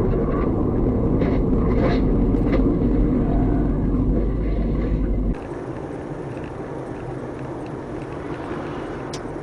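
A car's driving noise: a loud, steady low rumble of engine and road. About five seconds in it cuts abruptly to quieter, even traffic noise.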